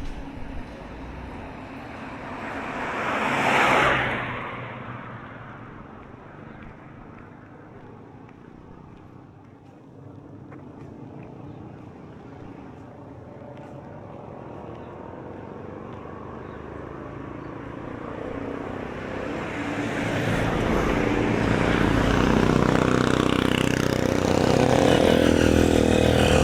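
Road traffic: a vehicle passes close by about four seconds in, then engine sound of passing motor vehicles builds and stays loud toward the end.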